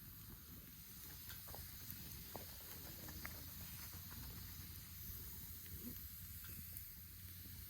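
Wood campfire burning faintly, a soft steady hiss with scattered small crackles and pops.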